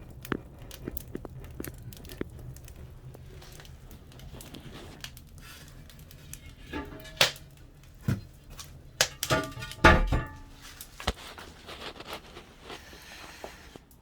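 Wood fire burning in a firebox, crackling and popping over a low steady rumble of the draft, with a few louder pops and knocks about halfway through and again near the two-thirds mark.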